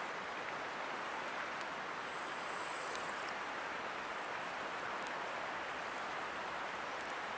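A river running with a steady rushing hiss. A few faint high ticks sound over it.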